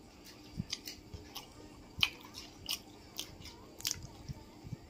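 Close-up chewing and biting of masala dosa: irregular wet mouth clicks and crunches, the sharpest a little after two seconds and again near four seconds.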